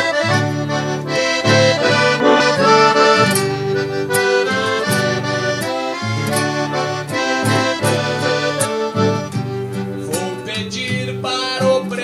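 Accordion playing an instrumental interlude between sung verses of a gaúcho song: a held-note melody over a rhythmic bass accompaniment.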